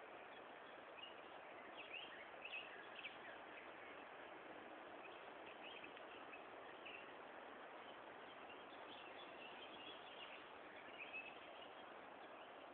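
Faint, scattered bird chirps over a steady hiss, near silence overall, with a small cluster of chirps a couple of seconds in and more towards the end.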